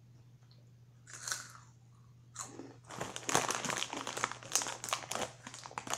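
Crunchy Cheetos being bitten and chewed close to the microphone: a short crunch about a second in, then dense, loud crunching from a little after two seconds on.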